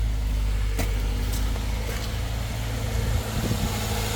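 Subaru FB25 2.5-litre flat-four engine idling steadily, a low even hum with a few faint ticks.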